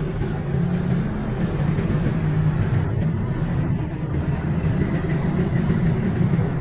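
A steady low mechanical rumble, like an engine running.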